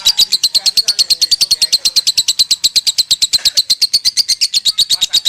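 Lovebird singing a long unbroken run of rapid chirps, about a dozen a second: the fast, continuous 'konslet' style of singing.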